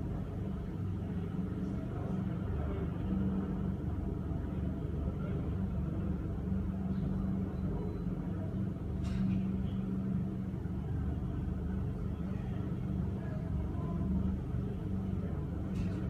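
Helicopter turbine and rotor running with a steady low rumble and an even hum, with no rise or fall. A few faint short hisses occur about nine seconds in and near the end.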